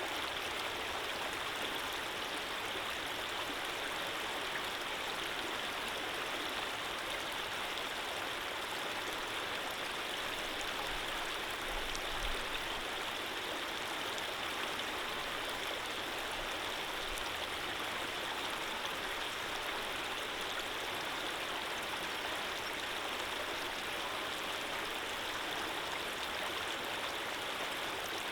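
Running water flowing steadily, an even, unbroken rushing hiss with no change in strength.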